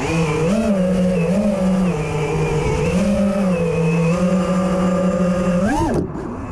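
Racing quadcopter's brushless motors and propellers whining at a mostly steady pitch that wobbles slightly with throttle. Near the end the pitch sweeps sharply up, then falls away and the sound drops in level.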